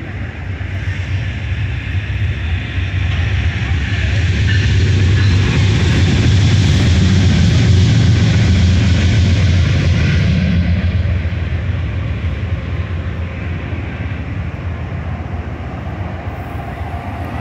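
Passenger train standing at the platform with a steady low hum. Over it, a loud rushing rumble builds over several seconds and dies away about ten seconds in.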